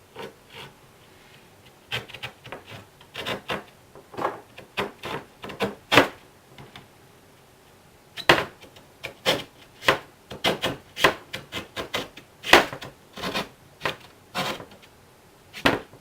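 A knife scraping and cutting into drywall in repeated, irregular strokes, with a pause of about two seconds in the middle.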